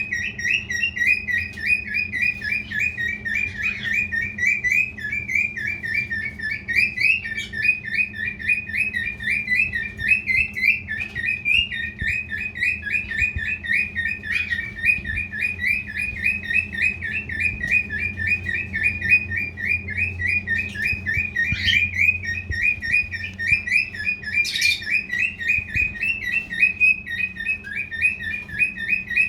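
Male cockatiel chattering in a fast, unbroken run of short repeated chirps, about five or six a second, with a few sharper, higher squawks mixed in.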